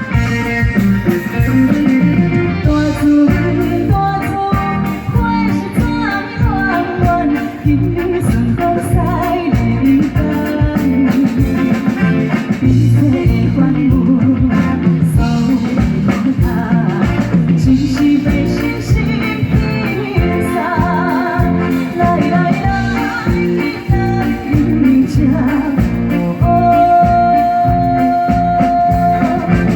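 A live song: a singer's voice over instrumental backing with a steady beat, with a long held note near the end.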